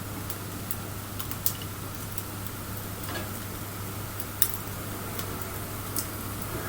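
Wood bonfire crackling: scattered sharp pops and snaps of burning wood, the loudest about four and a half seconds in, over a steady low hum.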